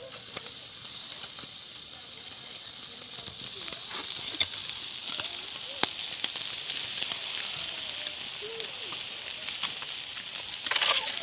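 A steady high hiss throughout, with scattered sharp clicks and knocks and a cluster of them near the end.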